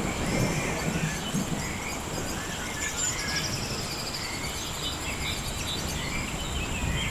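Rainforest ambience: birds chirping and insects trilling high and steadily over a low, even rumble.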